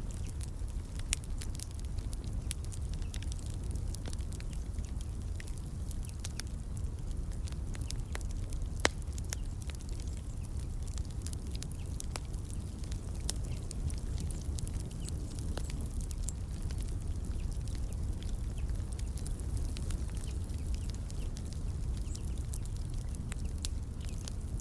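Wood fire crackling in a fireplace: irregular small pops and snaps over a steady low rumble of the flames, with one louder pop about nine seconds in.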